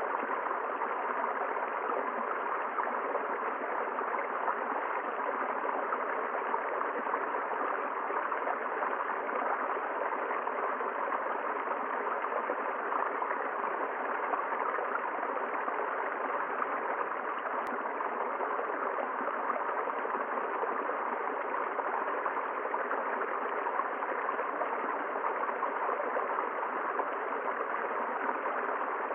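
A river flowing over rocks: a steady, even rush of running water with no change throughout.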